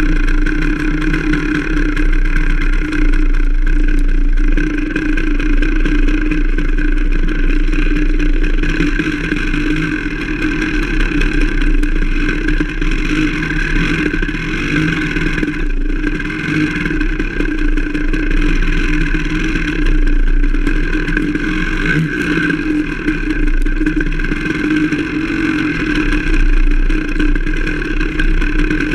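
Enduro dirt-bike engine running as the bike rides a forest trail. The engine note stays fairly level while its loudness rises and falls with the throttle.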